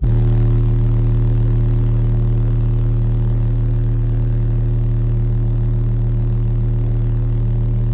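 Car audio subwoofers playing a single steady bass test tone of about 40 Hz at full volume for an SPL meter run, with a buzzing stack of overtones above it. It starts abruptly on the countdown and holds unchanged.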